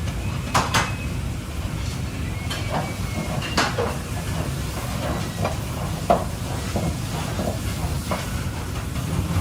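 Kitchen cooking noise: a steady low rumble with scattered clinks and knocks of cookware, the sharpest about three and a half seconds in and again about six seconds in.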